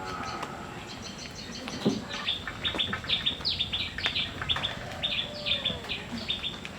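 Birds chirping busily: many short, high chirps in quick succession, growing denser about two seconds in.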